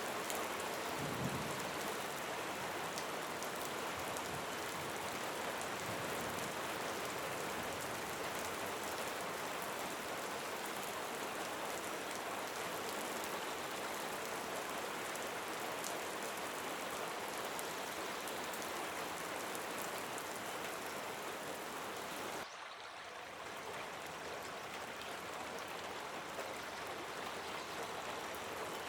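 Steady rain, an even hiss of falling drops, with a sudden brief dip in level about two-thirds of the way through.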